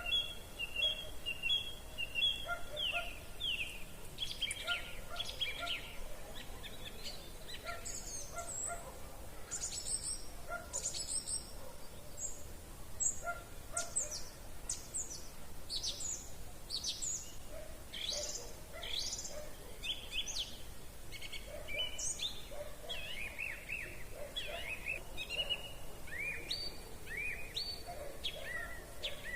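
Several songbirds singing together in an evening chorus: quick overlapping chirps and whistled phrases, over a faint steady hiss.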